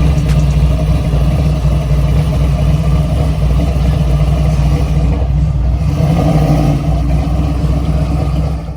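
A car engine idling loudly at a steady pace, with a low exhaust rumble.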